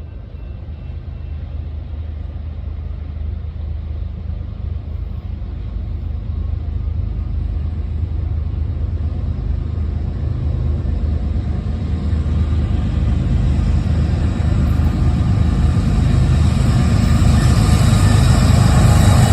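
Diesel locomotives of an approaching CSX freight train: a low engine rumble that grows steadily louder, with more high-pitched noise joining in over the last few seconds.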